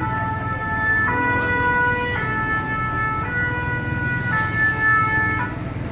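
French two-tone emergency vehicle siren sounding its alternating high-low 'pin-pon' pattern, switching pitch about once a second, and cutting off shortly before the end. A steady low rumble of engine and traffic lies underneath.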